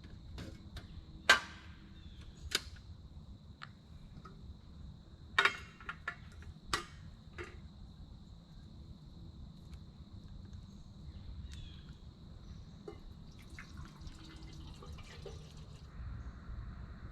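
A handful of sharp clicks and knocks, scattered through the first half and loudest about a second in and again about five seconds in, over a faint steady high hum.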